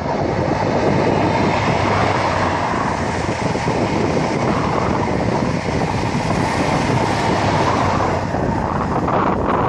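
InterCity 125 high-speed train with Class 43 diesel power cars passing at speed: engine noise together with the rumble and clatter of its wheels on the rails.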